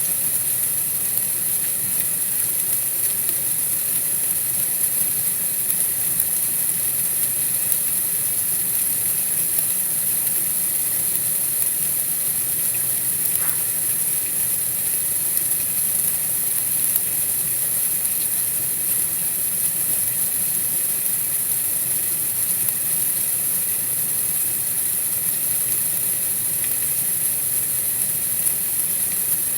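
Steady, even hiss of white noise, strongest high up, with a faint low rumble under it and no change throughout.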